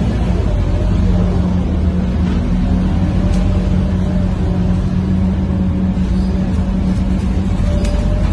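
Scania K230UB bus's 9-litre five-cylinder diesel engine running with a steady low drone.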